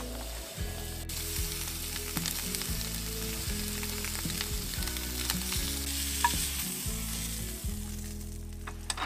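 Food frying over a hot fire: a steady sizzle with small crackles and pops.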